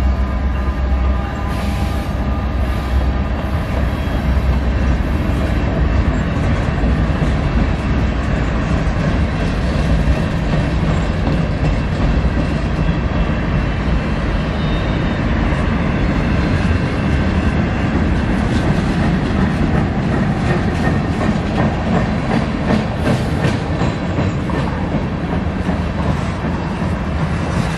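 Freight train rolling past: a steady rumble of rail cars, with the wheels clicking over rail joints, more so in the second half.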